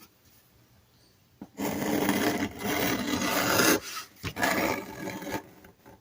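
Rubbing and scraping noises of a piece of leather being handled and wrapped around a toolbox handle. Two stretches of rough rubbing, the first starting about a second and a half in, with a few light knocks.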